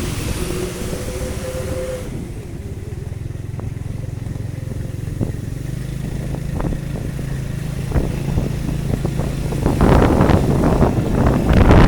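Motor vehicle engine running steadily on a wet city street, with a brief rising engine tone in the first couple of seconds. Near the end, loud wind buffets the microphone.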